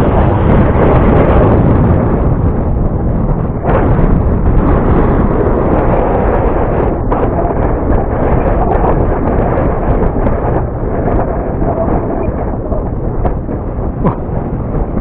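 Strong wind buffeting the microphone: a loud, continuous rumble that surges and eases.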